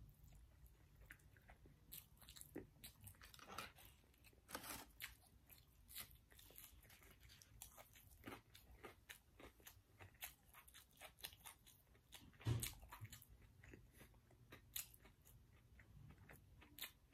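Faint close-miked chewing of a mouthful of scrambled egg: scattered soft mouth clicks and smacks, with a low thump about twelve seconds in.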